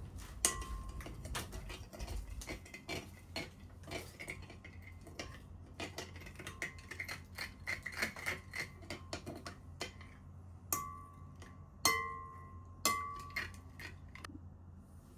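Kitchenware clinking: a run of light clicks and knocks of a utensil against a bowl or dish, with a few sharper strikes near the end that ring briefly, about a second apart.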